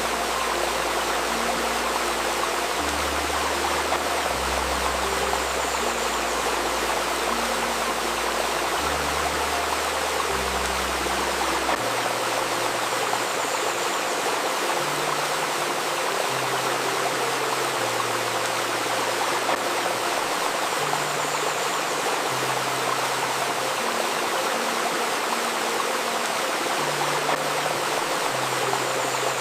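Steady rushing and babbling of a flowing stream, with soft, low, sustained synth notes underneath that change pitch every second or two.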